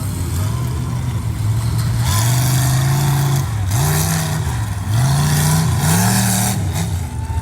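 Mud-bog truck's engine running hard, its revs surging up and falling back several times in the second half.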